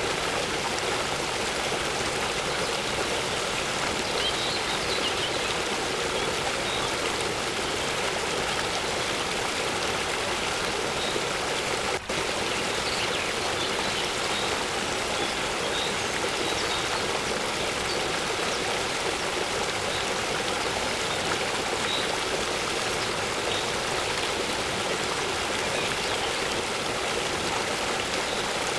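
Waterfall pouring steadily, with faint high bird chirps now and then. The sound drops out for an instant about twelve seconds in.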